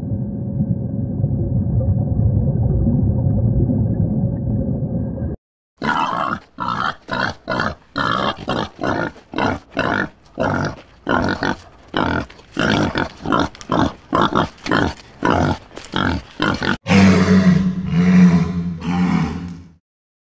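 A steady low rumble for about five seconds, then a wild boar feeding, with a regular sound about twice a second. Near the end, louder deep walrus calls cut off shortly before the end.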